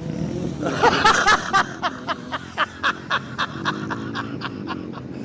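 A person laughing: a loud outburst about a second in, then a run of short rapid "ha" pulses, about four a second, that fade away.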